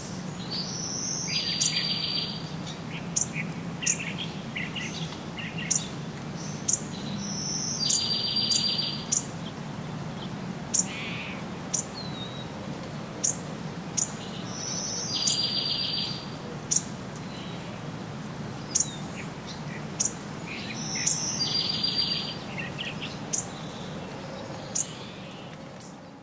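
A songbird repeating the same short song four times, each a high note followed by a fast buzzy trill, about every six to seven seconds. Short sharp high ticks come roughly every second in between.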